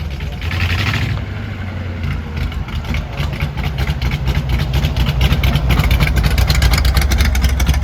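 A car engine running close by, with a rapid pulsing exhaust note that grows louder over the last few seconds.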